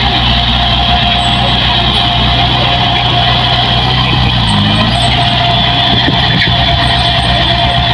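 Diesel engine of heavy farm machinery running steadily, with a constant high whine over the engine note. The engine note wavers briefly about four and a half seconds in.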